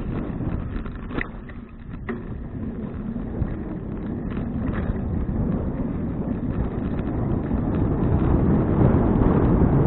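Wind buffeting an action camera's microphone on a moving bicycle, a steady low rumble. Two sharp clicks come about one and two seconds in. The rumble dips briefly, then grows louder toward the end.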